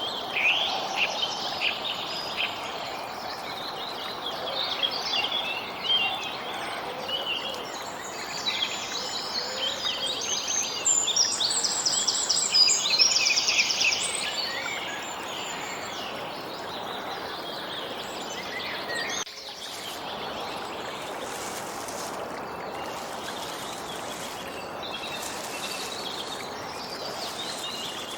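Songbirds chirping and trilling over a steady background hiss, the birdsong busiest in the first half and sparser after a brief dip in level.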